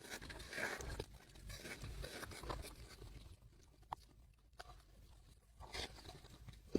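Close-miked chewing and mouth sounds of someone eating: soft irregular smacking and rustling with a few small clicks.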